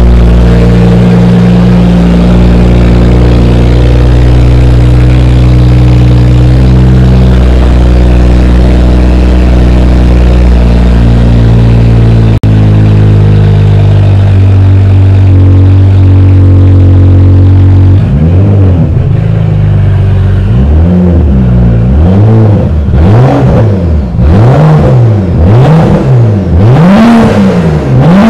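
BMW 535i F10's turbocharged straight-six running with no exhaust after the catalytic converters, loud, revved in a run of quick blips from about two-thirds of the way in, the pitch rising and falling roughly once a second. Before the blips, a steady drone.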